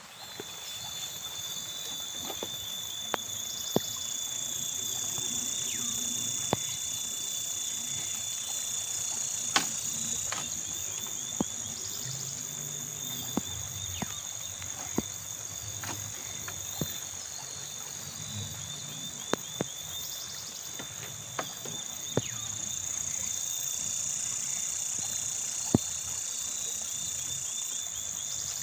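Steady chorus of insects, a high continuous buzz with a thin ringing tone, broken by irregular sharp knocks every second or few.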